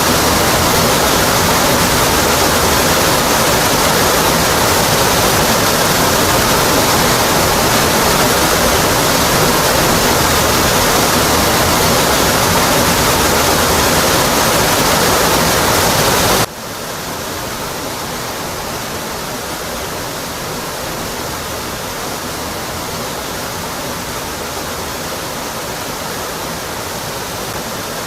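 Waterfall pouring down onto rock: a steady, dense rush of water. About two-thirds of the way through it drops suddenly to a noticeably quieter, duller level and carries on steadily.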